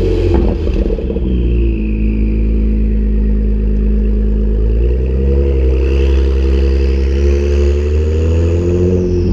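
2017+ Acura NSX's twin-turbo V6 running through a Pride valved aftermarket exhaust, holding a steady note with a brief rough patch about half a second in and a change in the low note about five seconds in. A faint high whine rises and then falls in the second half.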